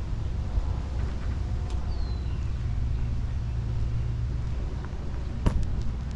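Steady low rumble of road traffic, with a short high chirp about two seconds in and a sharp click near the end.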